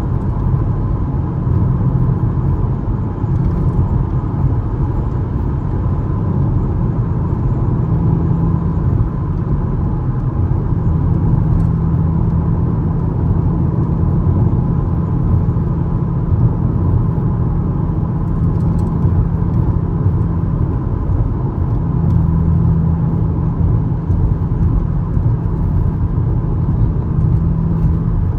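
2013 Camaro LS's 3.6-litre V6 running at a steady cruise: an even low engine drone with road rumble, and no clear revs or downshifts.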